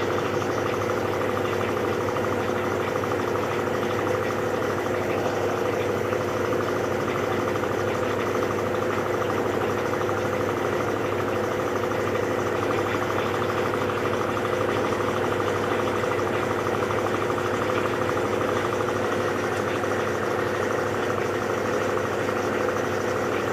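Electrolux LBU15 top-load washing machine in its final spin cycle, the motor and drum running with a steady whir.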